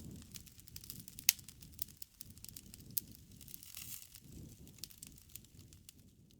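Bonfire crackling: a soft low rush of burning wood with scattered sharp pops and snaps, the loudest pop about a second in and another at about three seconds.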